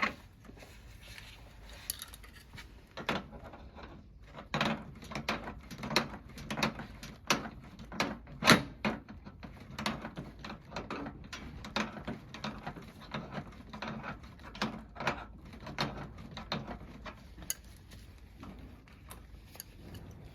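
Irregular clicks, knocks and clatter of hands-on work with tools and metal parts, busiest in the middle with one louder knock about eight and a half seconds in.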